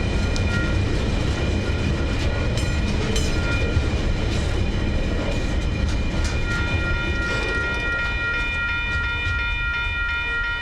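Freight train wagons rolling past with a steady rumble and scattered wheel clicks. Over it, level-crossing bells ring in a steady repeating pattern, standing out more clearly from about six seconds in.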